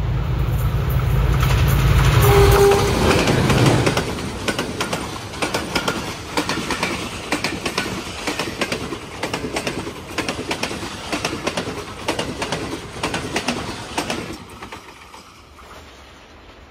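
Passenger express passing close at speed behind a Hitachi diesel-electric locomotive: a heavy low engine drone for the first few seconds with a brief steady tone about two and a half seconds in, then the coaches' wheels clickety-clacking over the rail joints in a fast rhythm, fading as the train draws away.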